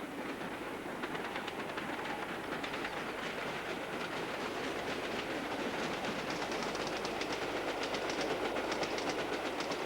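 LNER V2 class steam locomotive, 4771 Green Arrow, running with a train at speed. A fast rhythmic clatter grows gradually louder as it approaches.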